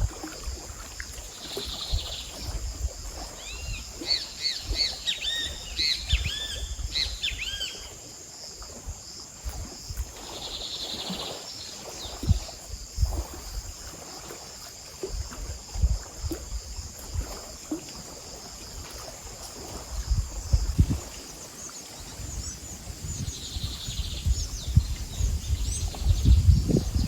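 Wild birds chirping outdoors, with a run of quick chirps a few seconds in and short buzzy calls that recur, over a steady high insect drone. Low thumps and rustling of movement come and go, heavier near the end.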